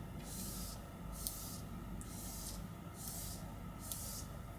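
Cloth wiping the inside of an iPhone 11: a series of short rubbing strokes about a second apart, with two small clicks between them.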